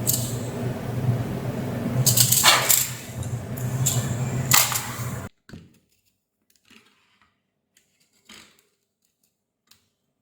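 A steady machine hum with several bursts of rattling noise. It cuts off abruptly about five seconds in, followed by a few faint clicks.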